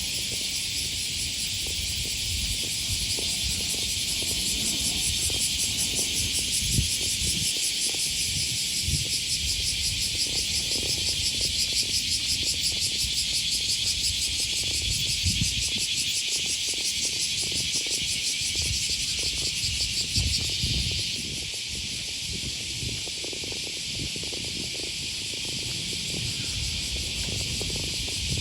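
Cicadas buzzing in a loud, dense chorus with a fast pulsing shimmer. About three-quarters of the way through, part of the chorus drops away and the buzzing becomes somewhat quieter.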